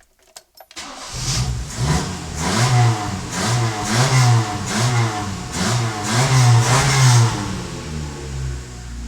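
FIAT 128A000 SOHC four-cylinder engine with a Weber carburettor being revved in quick repeated throttle blips, its speed rising and falling over and over, then dropping back to a steady idle near the end. It starts about a second in, after a brief near-silent gap with a few clicks.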